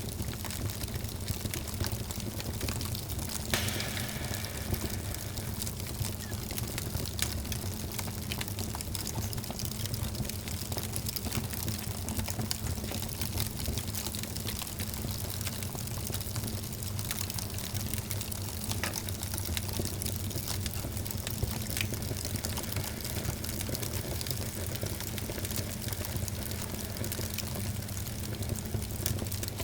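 Wood fire burning in a fireplace: steady crackling with frequent small pops over a low, even rumble, and one louder pop about three and a half seconds in.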